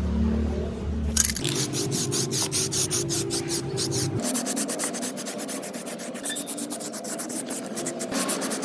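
Fast, repeated abrasive strokes rubbing back and forth by hand, several strokes a second, starting about a second in.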